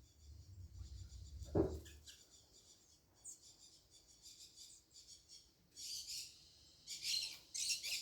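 Small birds chirping with high, thin calls, coming in denser bursts toward the end. A single thump about a second and a half in is the loudest sound.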